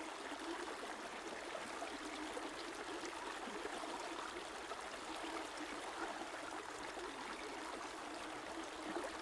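A river or stream running steadily over rocks, a continuous rushing and trickling.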